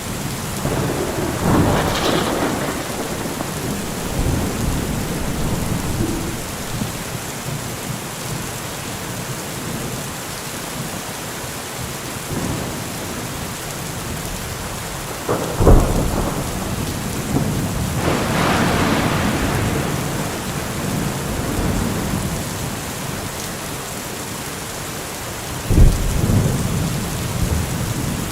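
Heavy rain falling steadily, with two sudden loud low thumps about halfway through and near the end, and two brief louder swells of rain noise.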